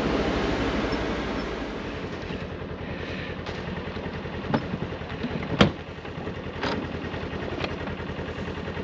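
Polaris Xpedition side-by-side's engine idling with a fast, even low pulse, somewhat louder at first and settling within the first two seconds. A few sharp clicks come about once a second in the second half.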